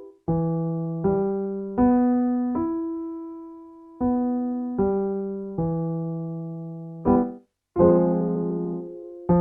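Piano playing a minor arpeggio vocal-warmup pattern: single notes struck one after another, each left to ring and fade, with the last note of each run held longer. Near the end a short chord is followed by a longer held chord, moving the exercise to the next key.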